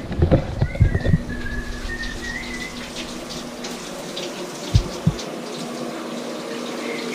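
Someone whistling a short wavering tune that stops about two and a half seconds in, over a steady hiss like running water, with a few low thumps.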